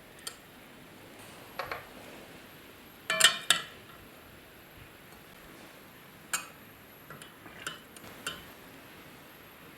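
Light clinks and knocks of dishes and utensils being handled, a dozen or so scattered strikes, loudest in a quick cluster about three seconds in.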